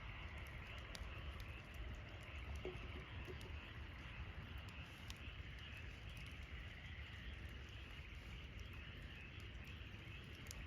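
Wood campfire crackling: scattered sharp pops and ticks over a steady hiss and low rumble.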